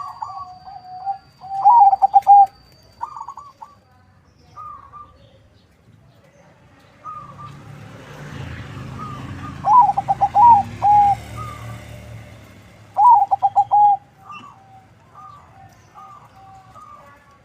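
Zebra doves (perkutut) cooing, a local × Bangkok cross: repeated phrases of quick bubbling notes, loudest about two seconds in and again twice near the middle, with softer coos between. A low rumble swells and fades through the middle.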